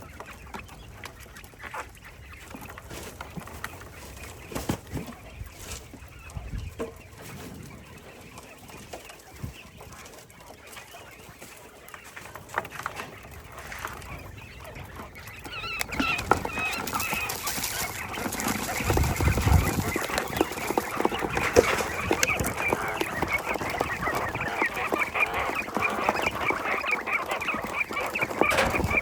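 A flock of quail calling, many short chirps overlapping; sparse with scattered clicks at first, the chatter becomes dense and louder about halfway through.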